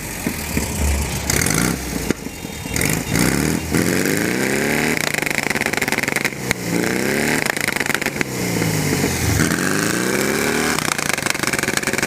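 Air-cooled Volkswagen Beetle flat-four engine revved hard several times, the pitch climbing and dropping back each time, blipping toward the rev limiter.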